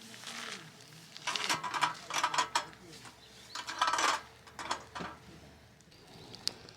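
Lumps of charcoal clinking and rattling as they are handled, in two clusters of short hard knocks, one about a second in and one around four seconds in, with a few single ticks after.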